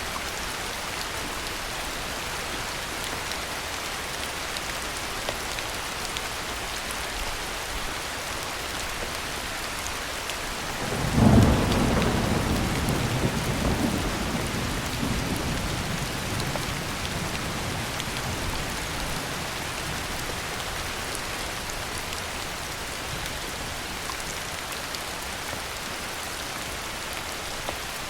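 Steady heavy rain falling, with a loud crack of thunder about eleven seconds in that rolls off into a fading rumble over several seconds.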